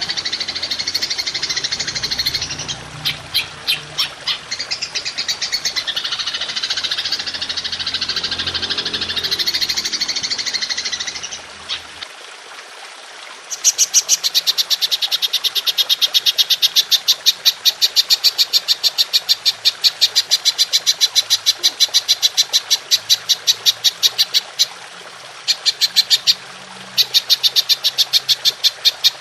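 A songbird's warbling, gliding song for about the first eleven seconds. Then, from about thirteen seconds in, a belalang emas (golden grasshopper) stridulates in long trains of rapid, even chirps, about four or five a second, pausing briefly twice near the end.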